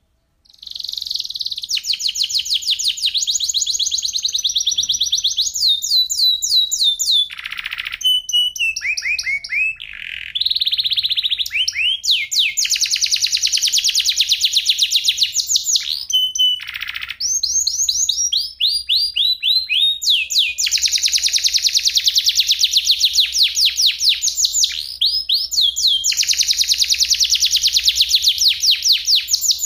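Domestic canary singing: long runs of very fast trills and rolls, some phrases falling in pitch, broken by short pauses between phrases.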